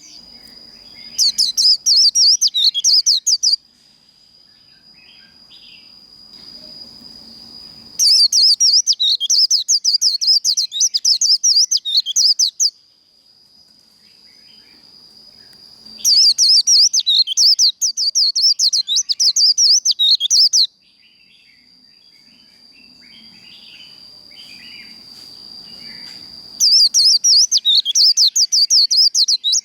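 White-eye (vành khuyên) singing its fast chattering 'líu' song in four bouts of rapid, jittery high notes, each a few seconds long with pauses between. A steady thin high tone runs underneath the whole time.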